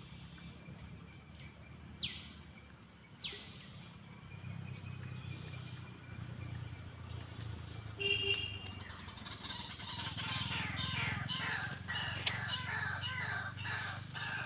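Wild birds calling: two sharp, quickly falling whistled calls about two and three seconds in, then from a little past halfway a dense run of rapid chattering chirps. A steady low hum runs underneath.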